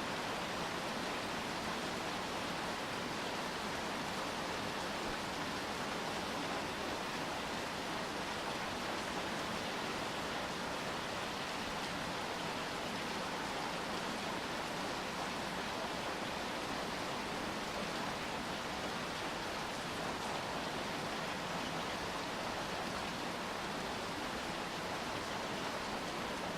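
Steady rainfall, an even hiss of rain with no single drops or other events standing out.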